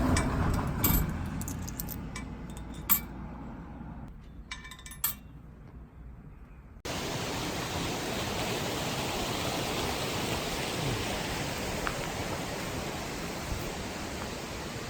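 Metal cookware clinking and knocking a few times. About seven seconds in, a steady sizzle starts suddenly: steak frying in a pan over a campfire.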